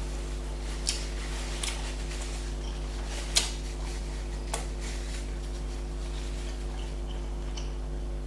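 Eating a doner kebab close to the microphone: a few sharp mouth clicks and smacks of biting and chewing, most in the first five seconds, over a steady low hum.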